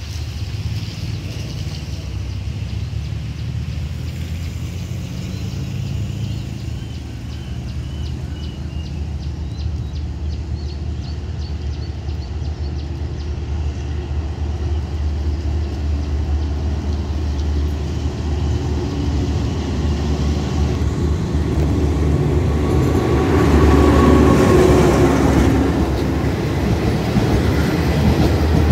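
An Alsthom diesel-electric locomotive hauling a passenger train approaches with a low rumble that grows steadily louder. It is loudest as the locomotive passes, about three-quarters of the way through, and then the coaches roll past on the rails.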